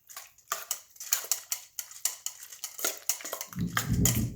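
A utensil clicking and clattering against a bowl in quick, irregular strokes while mixing raw chicken pieces with soy sauce and egg white. Near the end a low rumble joins in.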